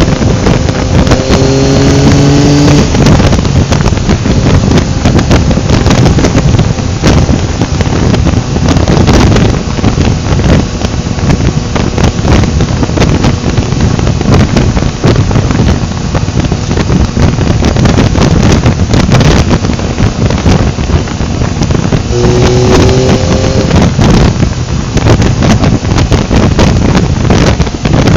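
Heavy wind rush on the microphone of a moving motorcycle, with the Yamaha XSR900's three-cylinder engine underneath. Its note rises briefly about a second in, and again about 22 seconds in, as the bike accelerates.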